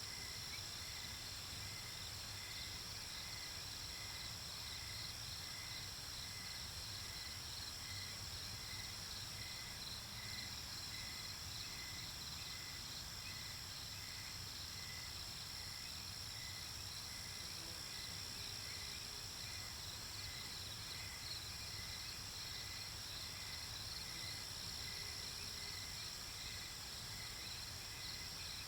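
Nighttime chorus of crickets and other insects: a steady high trill with a slower pulsing chirp repeating about twice a second, over a faint low rumble.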